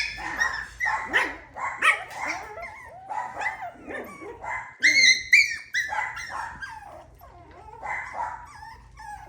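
Coton de Tulear puppies barking and yipping in a rapid string of short, high calls, the loudest about five seconds in, becoming sparser near the end.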